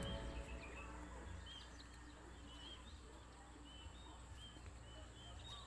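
Faint birds chirping: short, high calls repeating about every half second, over a low steady outdoor rumble.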